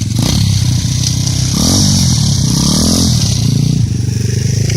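Racing pit bike engines revving hard as the bikes pass close by, the engine note rising and falling as they accelerate and back off.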